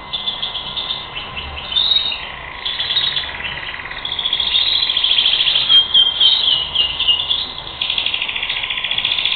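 European goldfinch singing a long, fast twittering song of trills and chirps, in phrases with short breaks between them.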